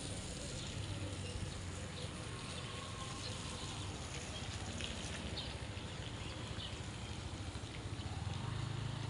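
Steady outdoor ambience in wet weather: an even hiss with a low rumble underneath and scattered faint patters, typical of light rain.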